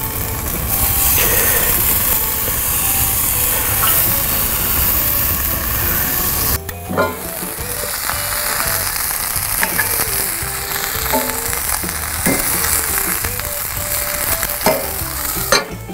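Sliced onion and red bell pepper sizzling in oil in a hot cast-iron skillet on a grill, with sausages grilling alongside. In the second half metal tongs turn the vegetables, clicking against the pan several times.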